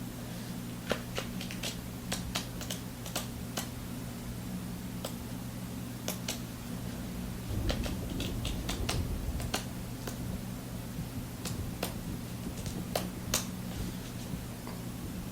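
Raindrops dripping and tapping in irregular, sharp ticks over a steady low hum, with a brief low rumble about eight seconds in.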